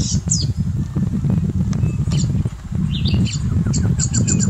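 Wild birds chirping and calling in forest over a loud, irregular low rumble. Near the end one bird starts a fast series of repeated notes.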